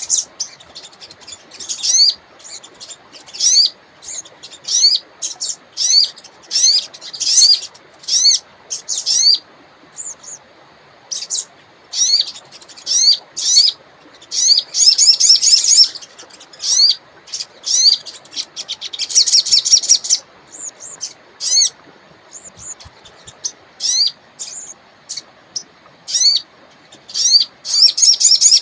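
Wild sogon bird calling: a long series of short, high, upward-sweeping chirps, with fast chattering trills about halfway through and again a few seconds later. Beneath it runs the faint, steady rush of a river.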